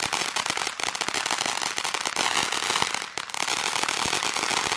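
Consumer firework (the "Mermaid") crackling, a fast, dense, continuous run of sharp pops.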